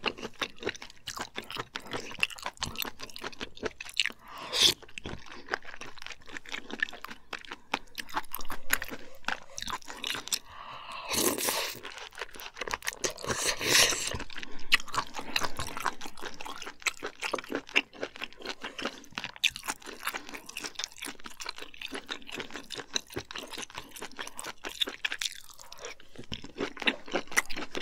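Close-up mouth sounds of eating abalone rice porridge: wet chewing and lip smacks from spoonfuls, with a few louder bites near the middle.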